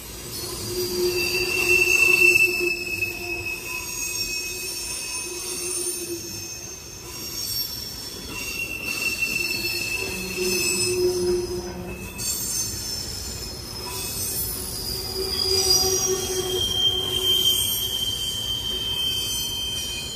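Freight cars of a long mixed train, tank cars and covered hoppers, rolling past close by, their steel wheels squealing against the rail over the steady rumble of wheels on track. Several separate squeals rise and fade, each lasting a few seconds, the loudest about two seconds in.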